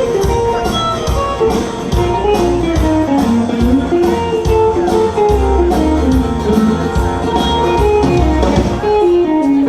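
Live band playing an instrumental, a guitar carrying a stepping melody over bass and a steady drum beat.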